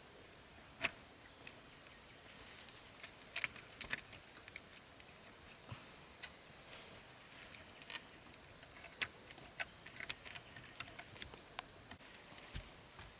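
Scattered light clicks and knocks, a few at a time, over a faint steady high drone.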